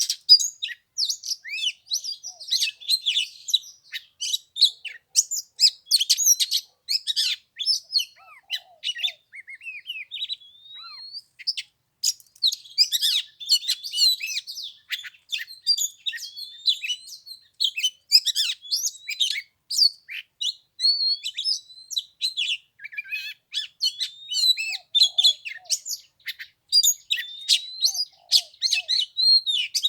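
Oriental magpie-robin singing: a fast, varied run of chirps and whistles, with a brief lull about ten seconds in.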